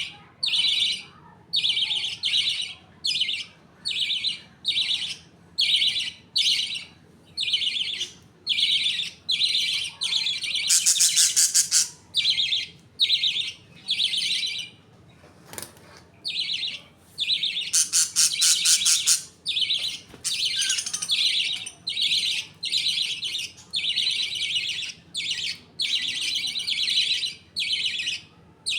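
Budgerigars chirping in a steady run of short high calls, about two a second, with two longer buzzy trills about 11 and 18 seconds in and a brief lull around 15 seconds in.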